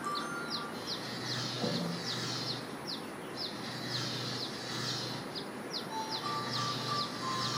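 A small bird calling a steady run of short, high, falling notes, about three a second.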